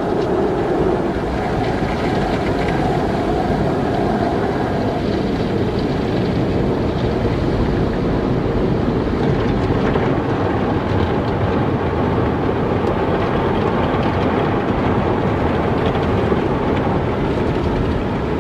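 Car wash running: a loud, steady, continuous wash noise of machinery and water, without pause or change.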